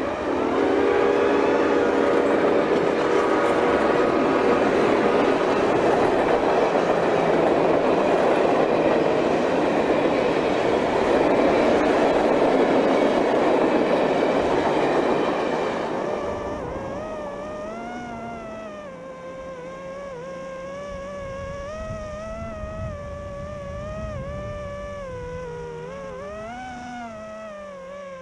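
A long coal train rumbling past, heard as loud rushing noise from an FPV drone flying close alongside. About two-thirds of the way in, the rushing fades and the drone's motor whine takes over, its pitch wavering up and down with the throttle.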